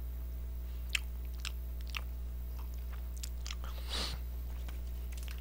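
A person chewing food with the mouth closed, with a few faint mouth clicks and a brief rush of breath-like noise about four seconds in, over a steady electrical hum.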